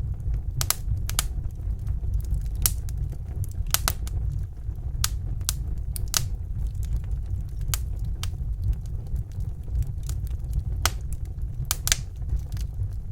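Wood fire crackling in a fireplace: irregular sharp snaps and pops, roughly one or two a second, over a steady low rumble.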